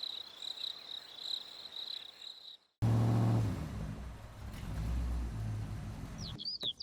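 Car engine sound effect: it cuts in suddenly about three seconds in and runs with a low rumble that eases and swells again. Birds chirp near the end.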